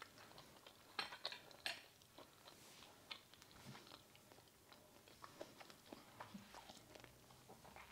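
A person quietly chewing a bite of baked cod, with a few light clicks of a fork on a plate about a second in.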